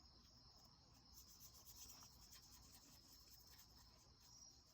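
Near silence, with a watercolor brush faintly rubbing and stroking on paper.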